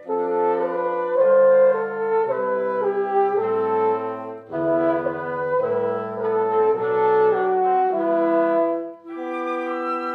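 Live woodwind quintet (flute, oboe, clarinet, French horn and bassoon) playing sustained chords with the horn to the fore. The music breaks off briefly twice, about four and a half and nine seconds in.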